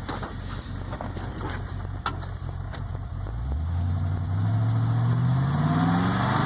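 Ford 5.0 V8 (302) breathing through Cherry Bomb mufflers, idling steadily and then revved: about halfway through, the engine speed starts to climb and keeps rising smoothly to the end.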